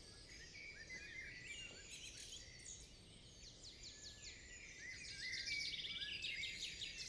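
Faint birdsong: many short chirps and whistled calls, with a rapid trill and a slightly louder stretch about five seconds in, over a faint steady outdoor hum.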